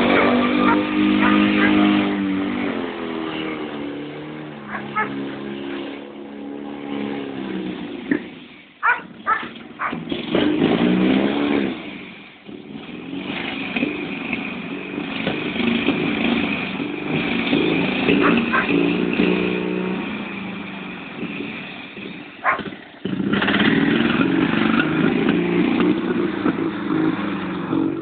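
Diesel-powered Fiat 126p 'Maluch' engine running, its speed rising and falling as it revs and drives. A few sharp clicks come about a third of the way in and again near the end.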